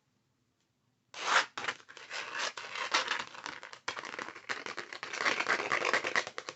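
Pink paper packaging backing crinkled and rubbed up close for ASMR. It starts about a second in with a sharp crackle and goes on as dense, rapid crinkling with many small ticks.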